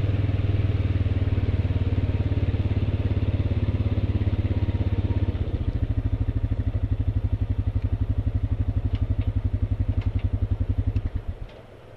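Honda ATV's single-cylinder four-stroke engine idling steadily, settling into a slower, evenly pulsing idle about halfway through, then switched off near the end.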